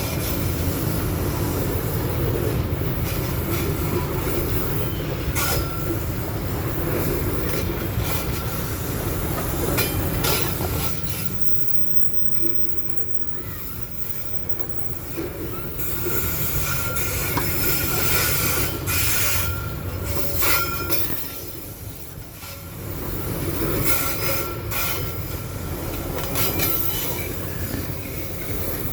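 Babaranjang coal-train wagons rolling past on the rails: a steady rumble with repeated clicks from the rail joints and an on-and-off high wheel squeal. The sound eases twice before building again.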